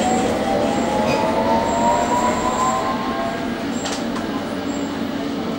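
London Underground S8 stock train running, with the whine of its Bombardier MITRAC IGBT-VVVF traction equipment rising in pitch over the first few seconds as the train gathers speed, over a steady rumble of wheels on rail. A sharp click comes about four seconds in.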